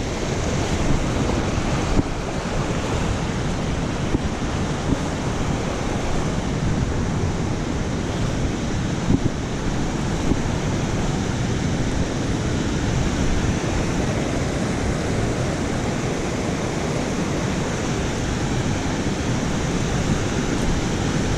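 Creek water rushing steadily, an even noise that does not change.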